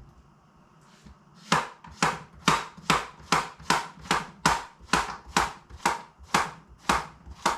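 Knife slicing squash into thin rounds on a cutting board: a steady run of sharp knocks, about two to three a second, starting about a second and a half in.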